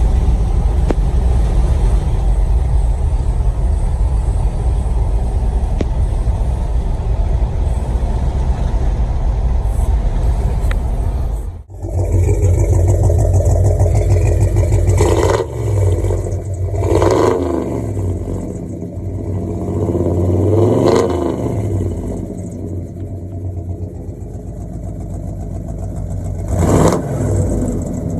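Truck engine with a heavy, steady low rumble, then after a sudden cut it revs up and down several times.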